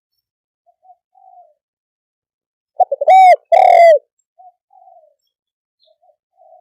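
Spotted dove cooing. A few faint soft notes come first. About three seconds in comes a loud phrase: a quick stutter of short notes, then two long, arched coos, followed by faint notes again.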